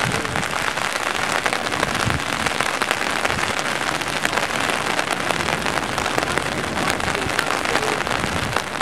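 Steady rain falling, with a dense patter of raindrops hitting surfaces close by.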